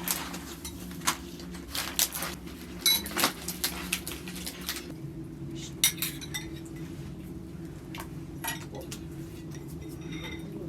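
Spoons clinking against bowls in a run of short, irregular clicks as soup is eaten, over a steady low hum.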